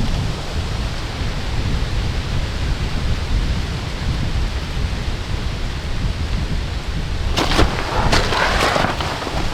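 Steady rain with a constant low rumble underneath. From about seven seconds in, a run of sharp, irregular rustles and crunches comes in over it.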